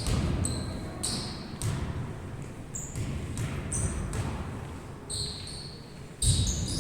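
A ball bouncing on an indoor court, with repeated short, high squeaks of shoes on the floor in a large hall.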